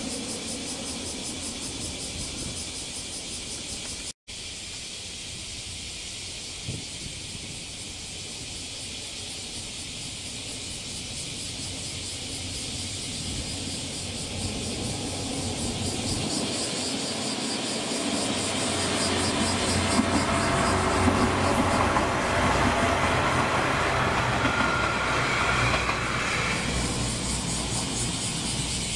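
A diesel train on the JR Kotoku Line, heard as a rumble that swells for several seconds, peaks around the twenty-second mark and eases off near the end. Cicadas keep up a steady pulsing shrill throughout.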